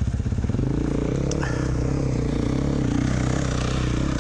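Dirt bike engine running nearby, idling with a pulsing beat, then picking up slightly and running more evenly from about half a second in.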